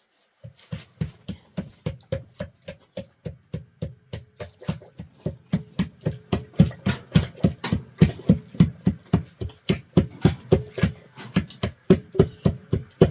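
Steady rhythmic thumping, about four beats a second, growing louder after about six seconds.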